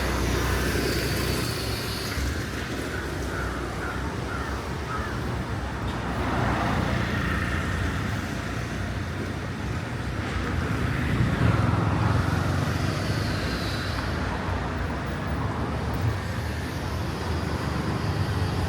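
Road traffic on a city street: vehicles passing with a continuous rumble of engines and tyres, swelling slightly about two-thirds of the way through.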